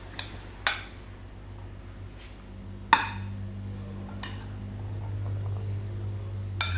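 A utensil clinking against a serving dish about six times while chickpeas are spooned into a poke bowl. The loudest clink comes about three seconds in, over a low steady hum.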